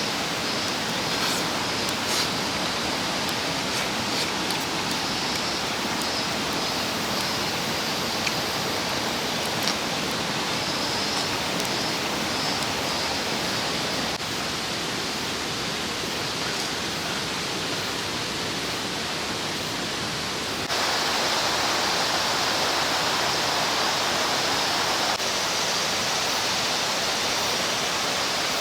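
Mountain stream rushing steadily, a continuous hiss of flowing water that gets louder about three-quarters of the way through.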